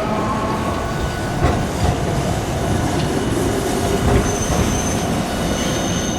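Hiroden streetcar running on its rails, a steady rumble of wheels on track with a thin high wheel squeal coming in past the middle.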